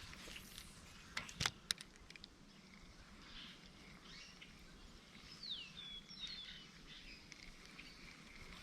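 Faint outdoor ambience with a bird calling about five seconds in: a falling whistle followed by a few short chirps. A few sharp clicks come about a second and a half in.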